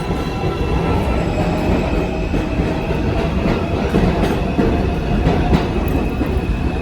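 R160A New York subway train with Alstom propulsion running, with a steady motor tone over the rumble of the cars. Short clicks from the wheels passing over rail joints recur through it.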